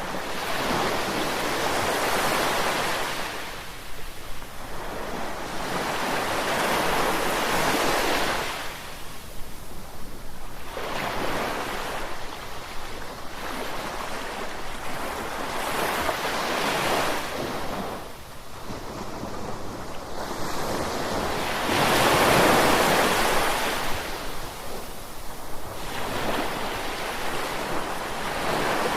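Ocean waves breaking and washing in, surging and falling back every few seconds, with one louder surge about three-quarters of the way through.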